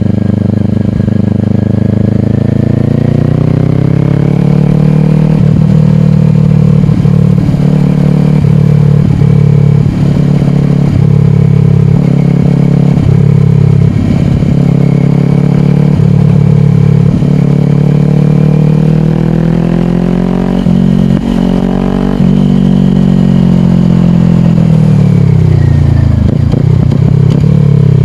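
2022 Kawasaki Ninja 400's parallel-twin engine through a slip-on exhaust, under way. The revs climb for the first few seconds and then hold steady at a cruise. Near the end the engine eases off and falls in pitch as the bike slows.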